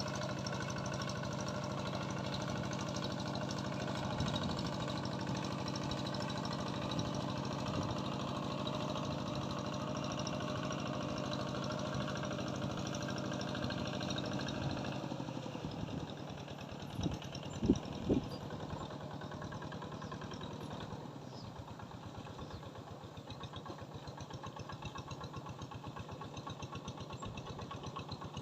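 A small engine running steadily, fading out about halfway through, followed by a few sharp knocks.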